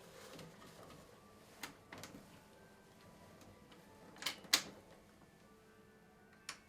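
Toy Miele washing machine being handled: a handful of sharp clicks and knocks, the loudest a close pair about four and a half seconds in, over a faint steady hum.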